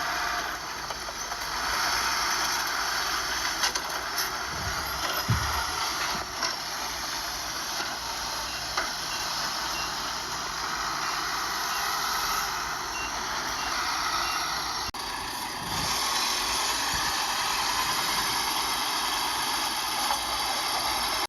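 Heavy earthmoving machinery (bulldozer and dump truck) running steadily, with a few clanks. A reversing alarm beeps at an even pace for several seconds in the middle.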